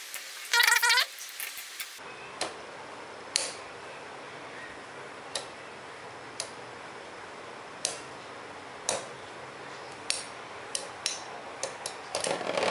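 Lightning L-Drago and Rock Leone Beyblade tops spinning in a stadium: a steady hiss broken by sharp irregular clicks as the metal wheels strike each other and the stadium wall, with the clicks coming faster near the end. A brief loud ringing whine sounds about half a second in.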